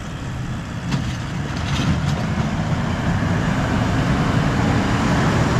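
Toyota LandCruiser 70 Series ute's engine running as it tows a boat trailer across soft beach sand, growing louder as it comes closer.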